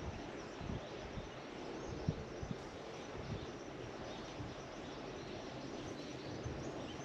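Outdoor rural ambience: a steady background rush with faint bird chirps.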